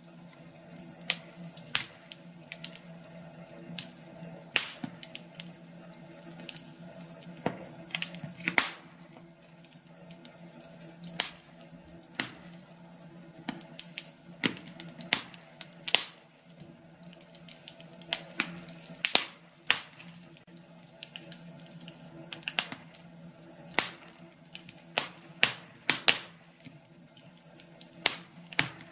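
Wood fire crackling: irregular sharp pops and snaps from burning logs, coming at uneven intervals over a steady low background.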